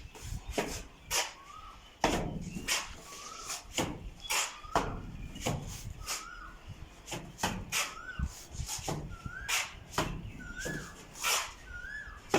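Repeated knocking and scraping, about two strokes a second, with a short squeaky chirp that rises and falls recurring between the strokes.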